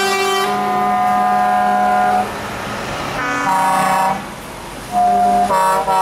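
Truck air horns sounding in held blasts, several horns at different pitches together: one long blast of about two seconds, then shorter blasts a little after three seconds and again about five seconds in.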